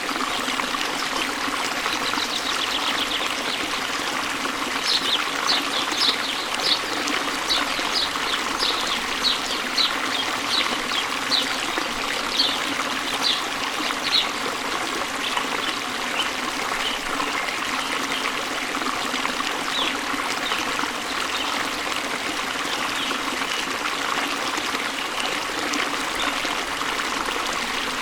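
Waterfall: a steady wash of flowing, splashing water. A run of short high-pitched ticks comes about twice a second from a couple of seconds in until about halfway through.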